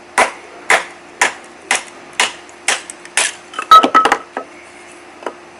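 Hinoki wood being split with a knife by batoning: sharp knocks about twice a second, seven in a row, then a quick rattle of clicks and knocks just before the four-second mark.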